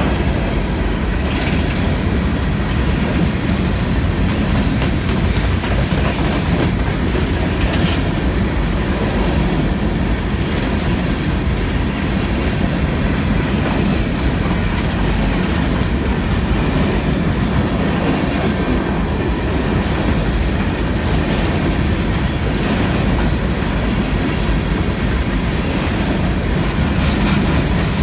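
Empty coal hopper cars of a freight train rolling past, a steady rumble with the clickety-clack of wheels over rail joints and a faint wheel squeal.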